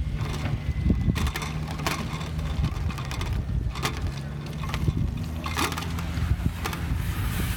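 Riding an e-bike along a paved path: a steady low rumble of wind and rolling on the microphone, with scattered short knocks and rattles.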